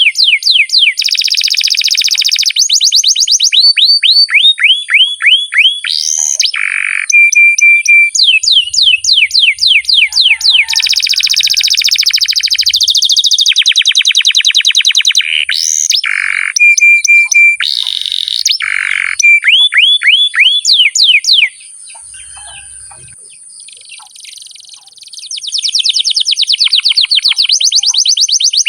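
Domestic canary singing a long, continuous song: fast repeated trills and rolls, broken by a few short held whistled notes. The song drops to a softer, quieter phrase about three-quarters of the way through, then picks up loud trills again near the end.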